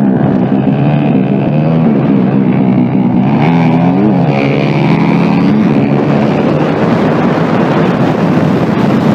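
Small motorbike engines revving loudly, their pitch rising and falling over and over.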